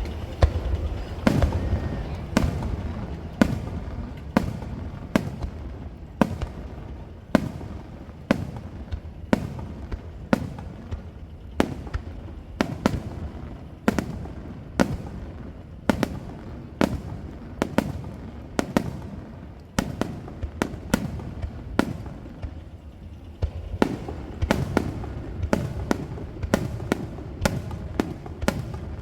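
Starmine fireworks display: aerial shells bursting in quick succession, sharp booms about one to two a second over a continuous low rumble of echo. The bursts come faster near the end.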